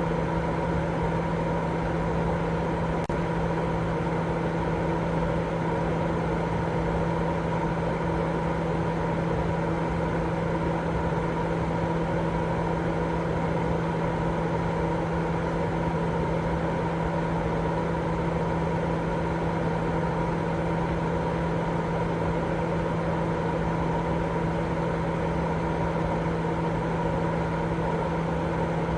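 Continuous sleep white noise: a steady, unchanging hiss with a constant low hum running through it.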